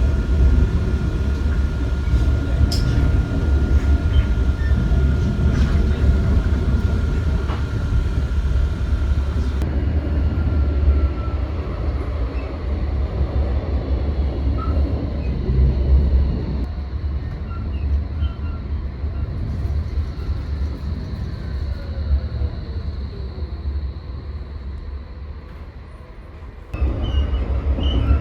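Tram in motion: a steady low rumble of the car running on its rails, with a thin steady whine over it for the first third. The sound changes abruptly a few times and grows quieter near the end, then jumps back to full level.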